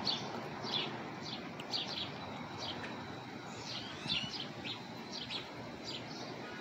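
Birds chirping: a busy run of short, high chirps, about three a second, over a steady low background hum.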